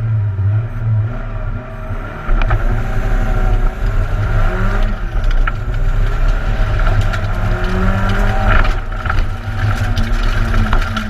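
Peugeot 106 1600 rally car's four-cylinder engine heard from inside the cabin. It runs steadily at first, then about two seconds in pulls away hard under full acceleration, its pitch climbing and dropping back at each of two upshifts.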